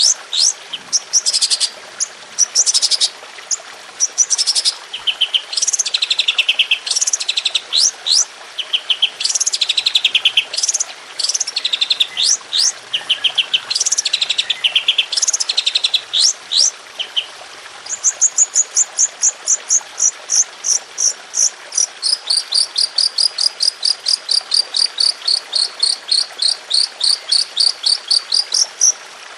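Songbird singing: varied high chirps and fast trills for the first half, then from about halfway a long unbroken run of sharp, high, evenly spaced notes at about four a second, the rapid 'tembakan' kind of phrase.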